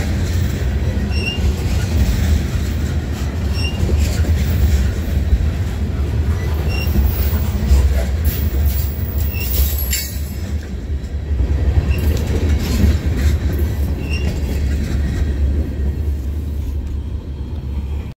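A train rolling past with a heavy, steady low rumble, and short high-pitched wheel squeals every couple of seconds.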